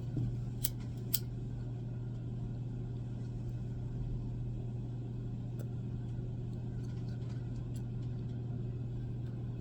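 Steady low background hum, with a couple of faint clicks in the first second or so.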